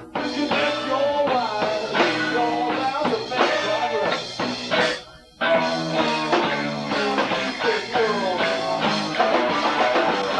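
A live rock band, with electric guitar, bass guitar and drum kit, playing a loud passage, with a short break about halfway through.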